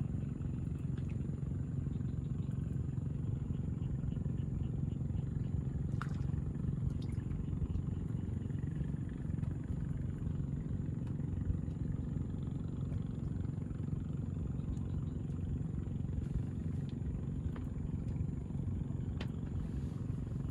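A steady low motor rumble, with a few faint clicks.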